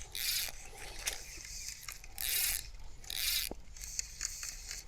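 Fly reel's click-and-pawl ratchet buzzing in three short runs as fly line is pulled off it by hand.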